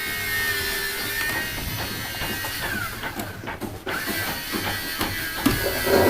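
Light, irregular knocks and taps of tools on wooden boards, over a faint steady machine hum.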